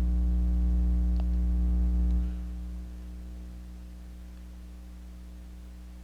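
Steady electrical mains hum, a low buzz with a faint tick about a second in, dropping to a much quieter level a little over two seconds in.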